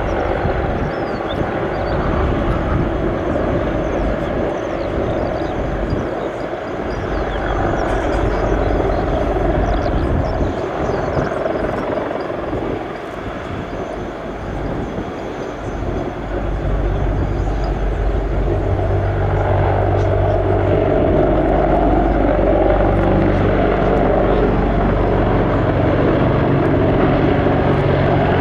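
Sikorsky CH-53K King Stallion heavy-lift helicopter running, its three turboshaft engines and rotors making a continuous noise. About halfway through it grows louder and a steady low hum comes in.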